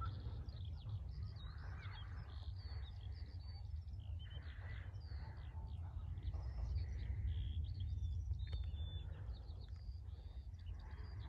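Birds chirping with many short, scattered calls, over a steady low rumble.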